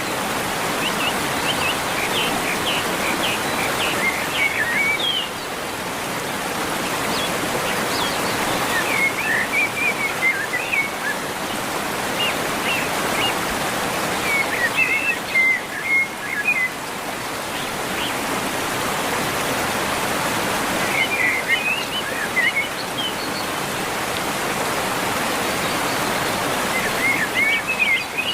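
Steady rushing of running water, with small birds chirping in short bursts of quick high notes that come back every five or six seconds.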